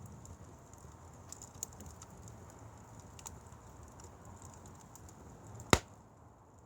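Firewood burning in a fire, crackling with scattered small ticks over a low steady rush, and one loud sharp pop near the end.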